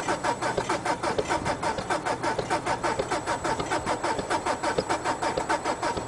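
Diesel truck engine idling cold just after starting, with a rough, even clatter of about seven or eight knocks a second.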